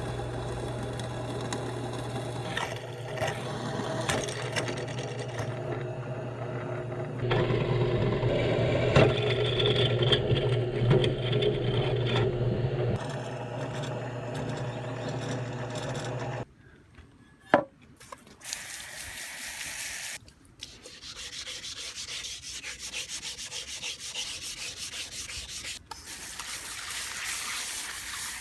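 Power tool working a thick steel plate: a steady motor hum with rasping for about sixteen seconds. After an abrupt cut and a single sharp click, there are stretches of hissing, high-pitched grinding with short breaks.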